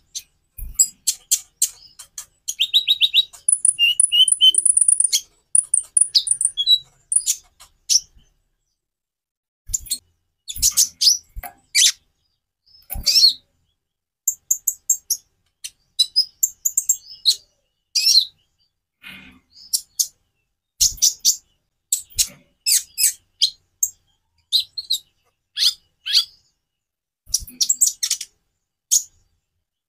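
A konin (kolibri ninja) sunbird singing: sharp, high chirps and a fast, twittering trill in bursts with short pauses between them.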